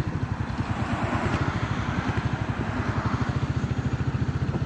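Royal Enfield Hunter 350's single-cylinder engine running steadily while riding, its exhaust beating in a fast, even pulse, with wind and road noise over it.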